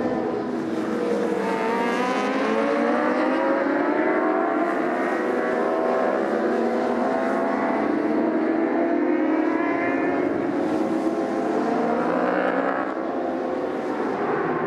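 Endurance racing motorcycle engines at high revs, several machines overlapping, their pitch rising and falling as they accelerate and pass.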